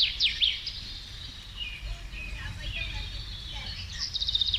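A small songbird singing: a fast high trill and a few quick downward-sliding notes, with softer chirps in between, then the trill starting again near the end. A low wind rumble runs underneath.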